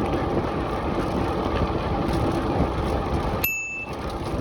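Steady rushing and rolling noise of a bicycle ridden along a dirt track, with wind on the microphone. A bicycle bell rings once, briefly, about three and a half seconds in.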